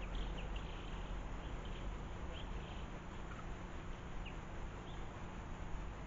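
Small birds giving short, high, downward-slurred chirps, about one or two a second and irregularly spaced, over a steady outdoor hiss and low rumble.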